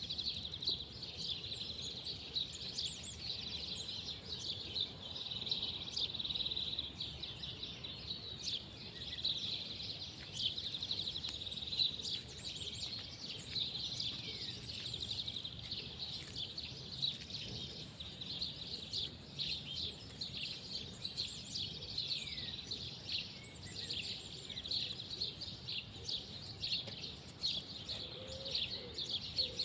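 Small birds chirping and twittering continuously, many short high calls overlapping over a steady outdoor background noise.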